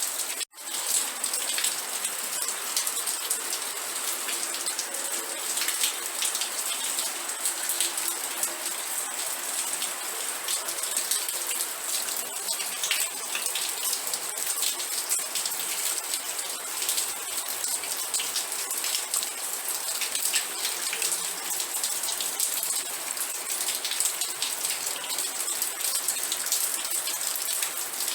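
Steady rain falling, a dense hiss with many individual drops heard as sharp ticks. There is a sudden brief dropout about half a second in.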